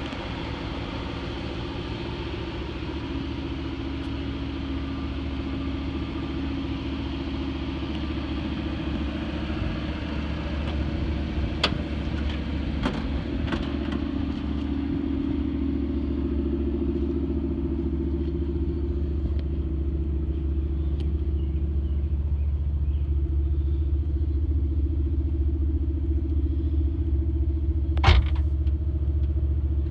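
1979 Chevrolet Malibu Classic's 305 V8 idling steadily. A few light clicks come about twelve seconds in, and a single sharp knock near the end.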